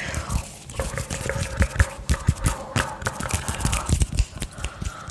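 Hands knocking and tapping on a tabletop close to the microphone: quick, irregular thumps and clicks with no steady rhythm.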